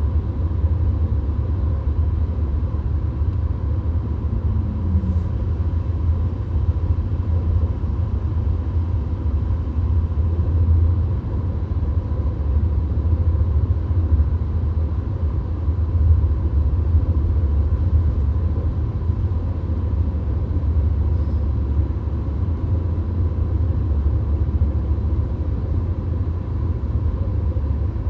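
Cabin noise of a VW Golf cruising at highway speed: a steady low rumble of road and engine noise, with a faint steady whine.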